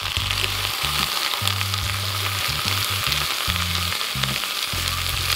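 Chopped vegetables sizzling in butter in a stainless steel skillet on a gas grill's side burner, sautéing on low heat. A wooden spatula stirs them, with small scrapes and taps against the pan.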